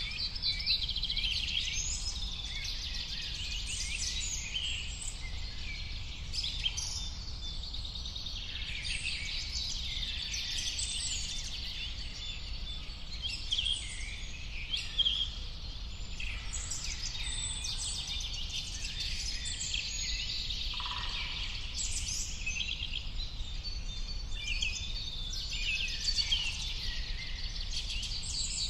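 Many small birds chirping and singing at once, a dense unbroken chorus of short overlapping calls, over a faint low rumble.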